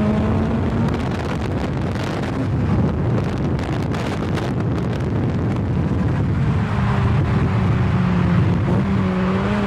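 K-swapped Honda Civic EK on the move, its engine droning under heavy wind noise on the microphone. A steady engine note comes through more clearly in the last few seconds.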